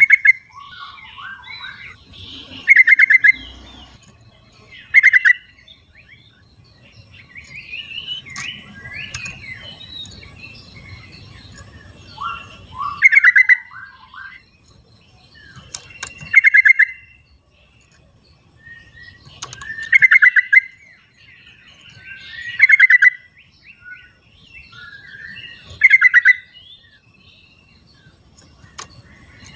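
Yellow-vented bulbuls (trucukan) singing in the wild: eight loud, short bubbly phrases a few seconds apart, with softer chattering calls between them.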